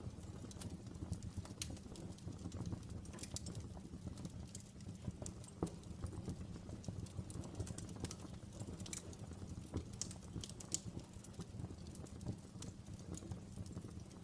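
Open fire burning: irregular sharp crackles and pops over a low, steady rumble of the flames.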